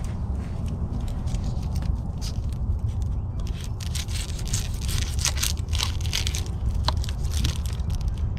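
Campfire cooking: irregular crackling and scraping, denser in the second half, over a steady low rumble.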